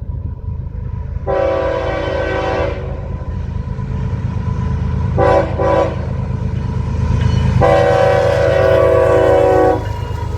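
Locomotive air horn sounding a long blast, two quick short blasts, then a long blast, each a chord of several steady tones, over the steady low rumble of the passing train.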